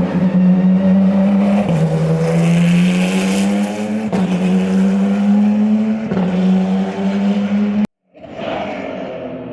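Porsche 911 GT3 R Rennsport's naturally aspirated 4.2-litre flat-six pulling hard through the gears, its pitch climbing and dropping sharply at three upshifts about two seconds apart. The sound cuts off abruptly near the end, and a quieter engine sound follows.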